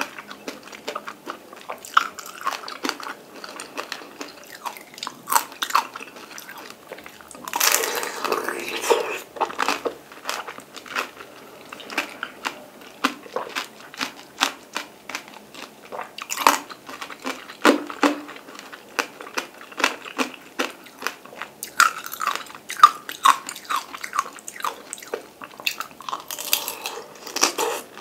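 A person biting into and chewing peeled mandarin orange, many small sharp clicks of mouth and fruit in irregular succession, with a denser stretch of chewing about eight seconds in.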